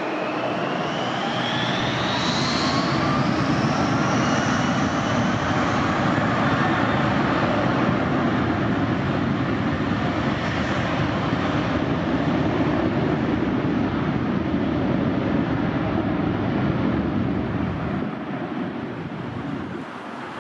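Jet airliner's engines running loud and steady, with a whine rising in pitch over the first few seconds, fading near the end.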